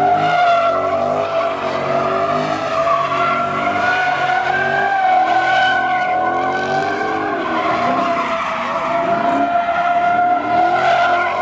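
Car doing a burnout: the tyres squeal in a sustained, steady high tone while the engine revs up and down underneath.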